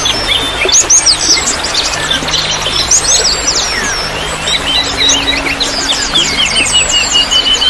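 Several songbirds chirping and twittering rapidly over a steady trickle of running water.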